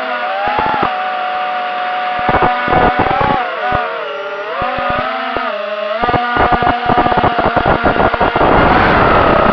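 FPV racing quad's brushless motors whining, the pitch rising and falling with the throttle. Frequent short crackles run through it and grow thicker and noisier near the end.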